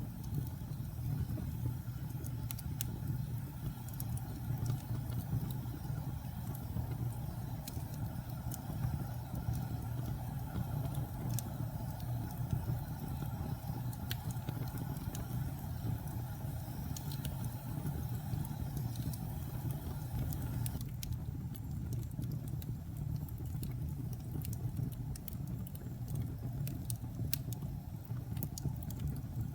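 Wood logs burning in a fireplace: a steady low rumble of the fire with scattered sharp crackles and pops. The higher hiss thins out about two-thirds of the way through.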